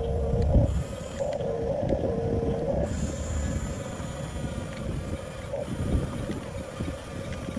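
Electric drive motors of a 1/14 scale Huina RC bulldozer whining steadily, over the rough rumble and crackle of its plastic tracks and blade working through soil.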